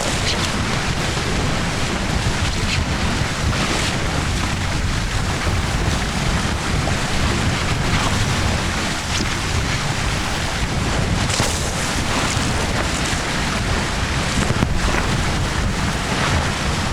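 Strong wind buffeting the microphone over water rushing and hissing past the hulls of a Tornado catamaran at high speed.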